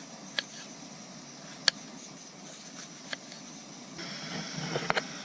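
Small portable gas camping stove burner hissing steadily under a pot of water coming to the boil, with a few sharp clicks; the hiss grows louder about four seconds in.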